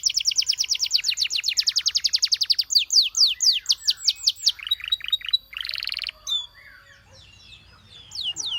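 Domestic canary singing: a fast trill of rapidly repeated high notes, then slower downward-sweeping notes, a short trill and a buzzy phrase. The song drops to faint chirps for about a second and a half before more sweeping notes near the end.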